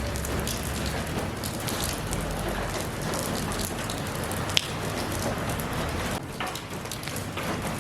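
Steady rain falling, a dense hiss of drops hitting surfaces with scattered sharper drips, and one louder single drip or tap about four and a half seconds in.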